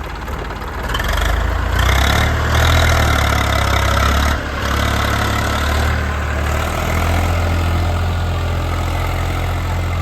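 Heavy machine's diesel engine running, picking up revs about a second in, dipping briefly around the middle, then holding steady.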